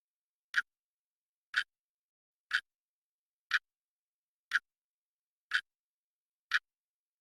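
A clock ticking steadily, one sharp tick per second, with dead silence between the ticks.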